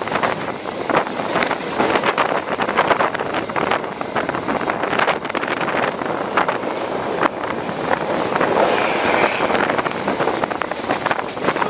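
Passenger train coach running at speed, heard from inside its toilet: loud rushing wind and rail noise with irregular clattering of the wheels over the track.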